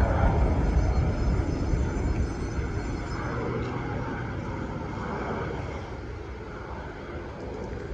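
An airplane's engines rumbling as it passes, growing gradually fainter as it moves away.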